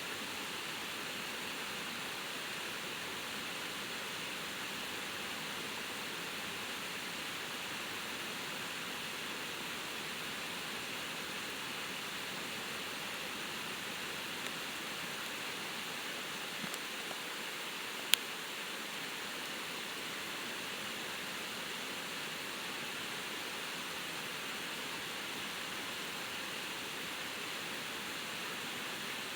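Small waterfall running with extra water after a night of heavy rain: a steady rush of falling water. A single sharp click about two-thirds of the way through.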